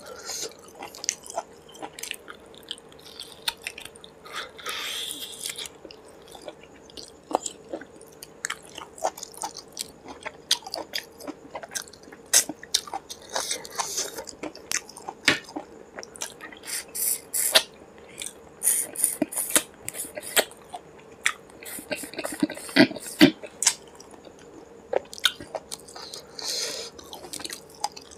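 Close-miked wet chewing and lip-smacking of a person eating rice and curry with their fingers, a dense run of irregular sharp clicks and squelches.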